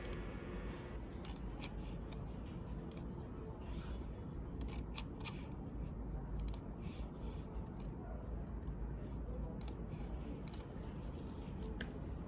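Faint, irregular light clicks scattered over a low steady room hum.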